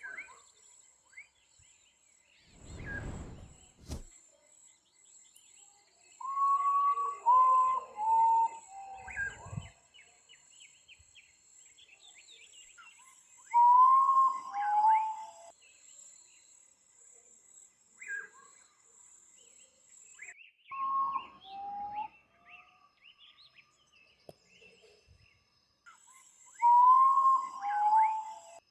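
A songbird singing a short phrase of clear, descending whistled notes, repeated four times about every six or seven seconds, over a steady high-pitched buzz that stops partway through and comes back near the end. A brief low rumble is heard twice early on.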